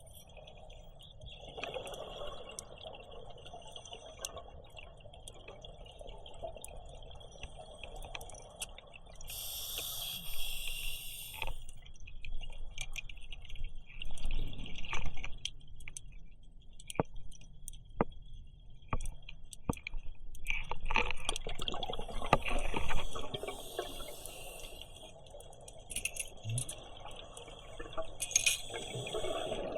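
Scuba diver breathing through a regulator underwater: short hisses as air is drawn in, about ten seconds in and again near the end, and long bubbling rushes of exhaled air, with scattered sharp clicks between them.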